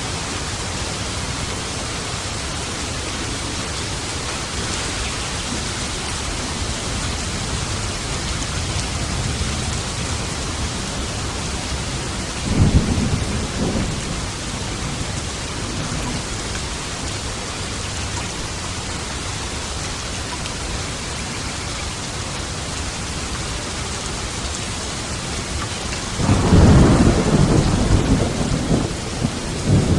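Steady heavy rain during a thunderstorm. A sharp thunderclap comes a little under halfway through, and a longer rolling thunder rumble begins near the end.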